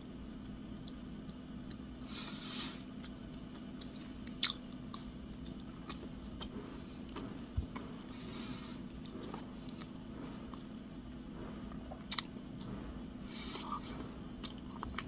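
A person quietly chewing a mouthful of donut with the mouth closed, with a few small sharp mouth clicks now and then.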